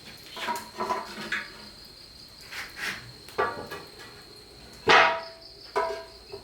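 Crickets trilling steadily, with several separate knocks and clatters over it. The loudest clatter, about five seconds in, rings briefly.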